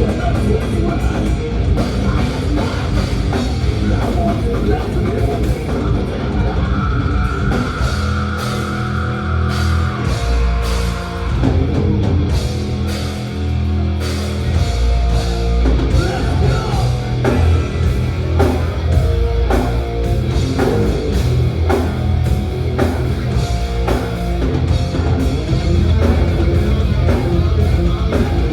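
Thrash metal band playing live: distorted electric guitars, bass and a pounding drum kit.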